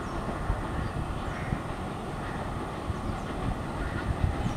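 Passenger train's coaches rolling away on the rails, a steady rumble, with wind buffeting the microphone in irregular low thumps.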